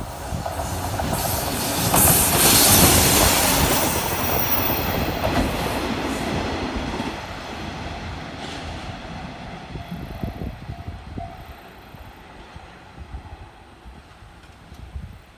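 A rail transfer train passing close by over a level crossing. Its wheels and running gear rumble loudly, peaking about two to three seconds in, then fade steadily as it moves away.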